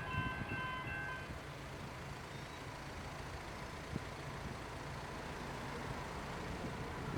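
Level-crossing electronic bells (General Signals Type 2 e-bells) ringing a pulsing, repeating chime that cuts off about a second in, as the crossing's activation ends. A steady low road-traffic rumble follows.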